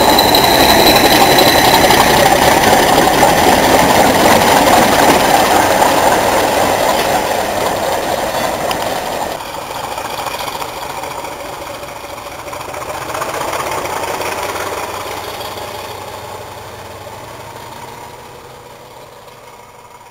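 Class 40 diesel-electric locomotive, its English Electric 16-cylinder engine working hard with a high whistle in the first couple of seconds. The sound drops sharply about halfway, swells briefly, then fades away steadily as the locomotive pulls its train into the distance.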